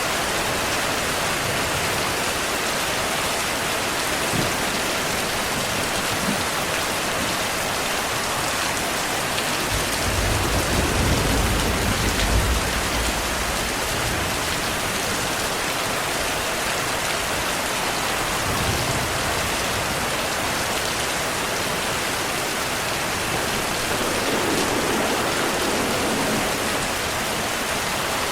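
Steady rain falling, with a low rumble of distant thunder about ten seconds in that lasts a few seconds, and a fainter rumble a little later.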